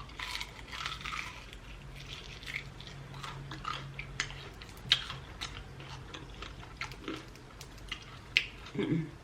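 Close-miked biting and chewing of hard-fried chicken wings, with irregular crisp crunches throughout, the loudest about five seconds in and again near the end. A short hum from the eater just before the end.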